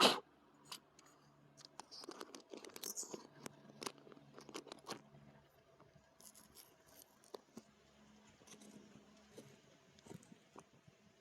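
Camera being handled and fitted back onto its bike mount: close, scattered clicks, scrapes and rubbing, with a sharp knock at the start and the busiest handling in the first five seconds, then only occasional clicks.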